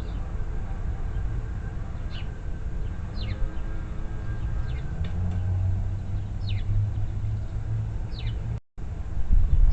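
Small songbirds giving short, downward-sliding chirps about once a second, over a steady low rumble of traffic.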